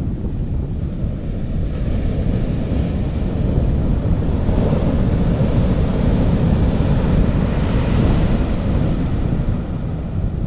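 Sea waves breaking and washing up a beach, one wash swelling to a hiss about halfway through and fading again, over a steady low rumble of wind on the microphone.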